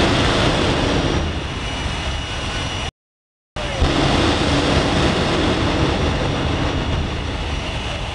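Westinghouse J34 turbojet in a jet car running hard, a loud, steady rush of jet noise. The sound cuts out completely for about half a second around three seconds in, then comes back with a short pop.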